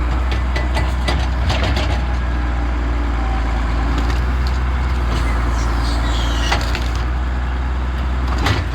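Engine running steadily under the wooden knocks and cracks of logs being rolled off a trailer onto the ground, with a loud knock near the end. A short falling squeal comes about six seconds in.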